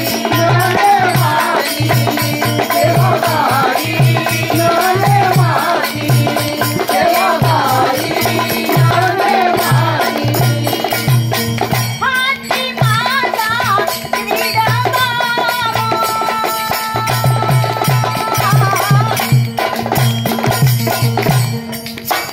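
Marathi folk music: a woman's voice singing with a wavering, ornamented melody over an ektari drone, a steady drum beat and rattle percussion. A long held note takes over from about fourteen seconds in.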